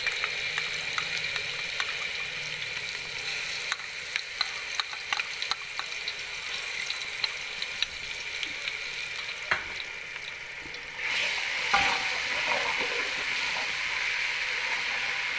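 Ginger-garlic paste sizzling in hot cooking oil in a pot, with short clicks and scrapes from a metal spoon as it is stirred and more paste is spooned in. The sizzle grows louder about eleven seconds in.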